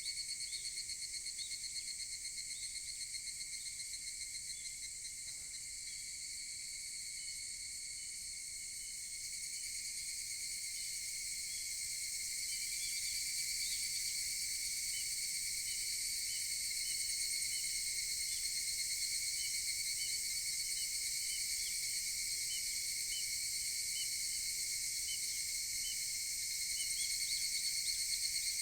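Higurashi (evening cicadas) calling in a steady, shrill, high-pitched chorus that swells gradually louder partway through. A faint run of short chirps repeats about twice a second through it.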